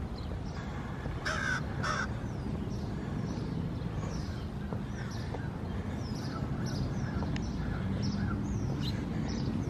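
Birds calling: two harsh calls about half a second apart, about a second in, then a run of short, high, falling chirps over steady low background noise.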